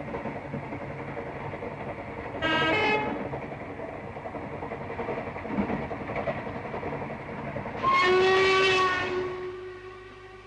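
A train running with a steady rumble and clatter, sounding its horn twice: a short blast about two and a half seconds in and a longer one near the end, after which the sound fades.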